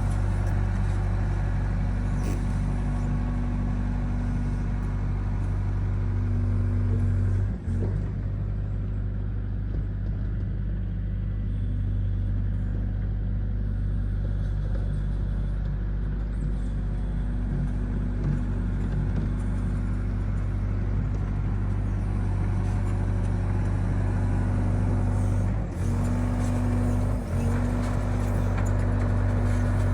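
Excavator's diesel engine running steadily: a low hum with a constant higher tone, dipping briefly about a quarter of the way in and twice near the end.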